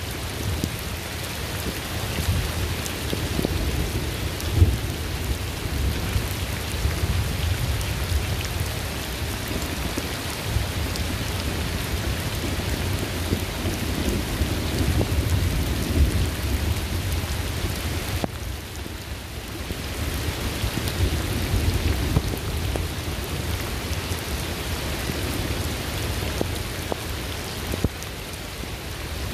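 Steady rain falling, with a low rolling thunder rumble underneath. The sound briefly drops in level about 18 seconds in.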